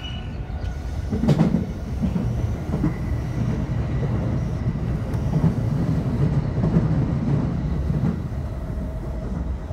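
Electric commuter train running, heard from inside the front car: a steady low rumble with irregular knocks as the wheels pass over rail joints.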